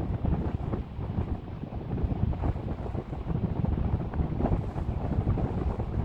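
Wind buffeting the microphone in gusts, a rough low rumble that rises and falls.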